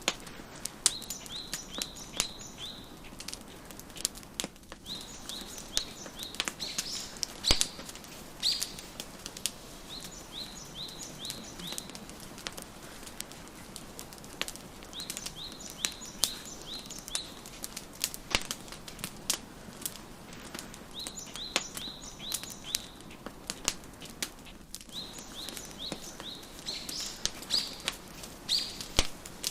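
Wood fire crackling with irregular sharp pops. Over it, a songbird repeats a short phrase of quick chirps about every five or six seconds.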